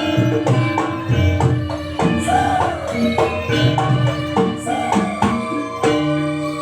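Live Javanese gamelan accompaniment for a jaranan trance dance: struck metal keys and gongs ringing with steady sustained pitches, regular hand-drum strokes, and a wavering melody line above them.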